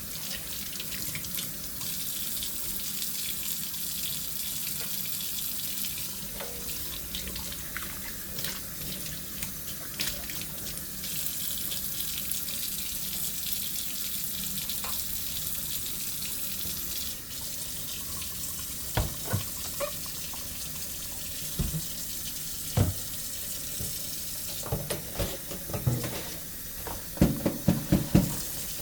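Kitchen tap running steadily into a sink during hand dishwashing. In the latter part, dishes knock and clink against each other and the sink, with a quick run of knocks near the end.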